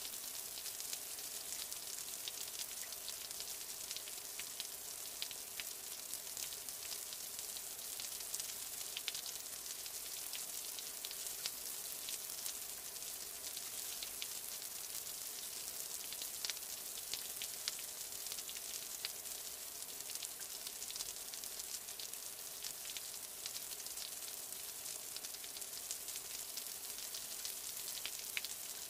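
Steady rain: an even, mostly high-pitched hiss with many small drop ticks scattered through it.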